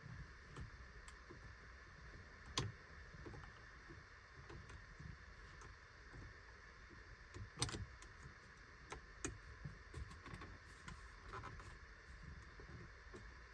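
Faint scattered clicks and taps of hand tools working at a Tesla Model 3 steering wheel while trying to release it, with two sharper clicks about two and a half and seven and a half seconds in, over a faint steady hiss.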